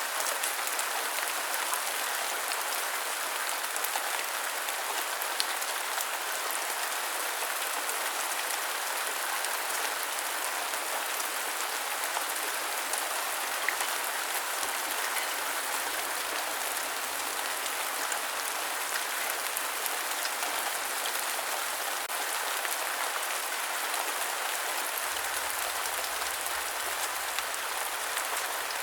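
Steady rain falling, an even hiss of rain with scattered sharp drop ticks.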